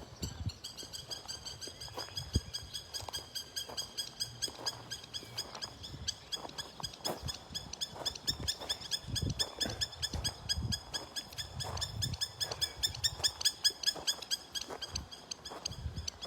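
An animal's rapid, repeated high chirping calls, several a second, kept up steadily without a break.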